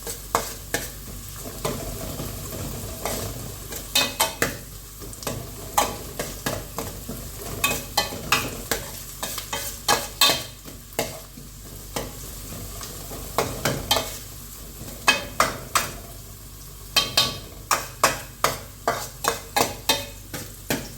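A cooking spoon stirring and scraping a pan of frying chicken pulimunchi masala, in irregular clusters of sharp scrapes over a low, steady sizzle.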